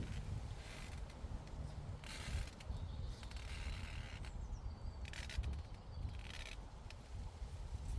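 Meadow ambience: a steady low wind rumble on the microphone, with short bursts of rustling hiss every second or two.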